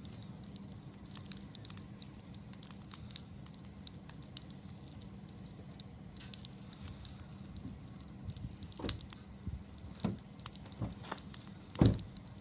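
Wood campfire crackling steadily over a low rumble, with scattered small snaps. A few louder pops come in the last few seconds.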